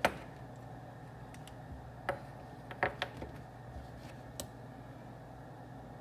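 Scattered sharp clicks and taps of desk work over a steady low room hum; the loudest click comes right at the start, with a cluster of clicks around the middle.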